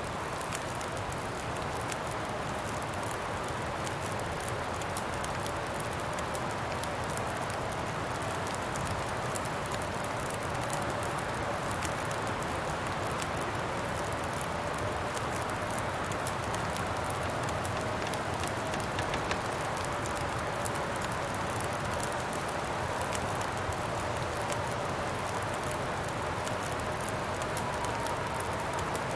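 Steady wind blowing with a faint, slowly wavering whistle, over a campfire crackling with frequent small pops.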